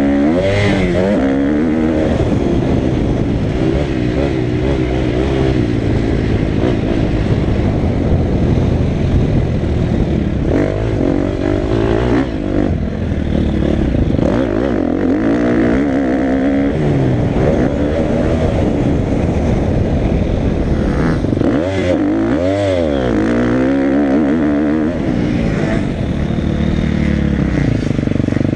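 Motocross dirt bike engine being ridden hard, its pitch repeatedly rising and falling as it revs up and drops back.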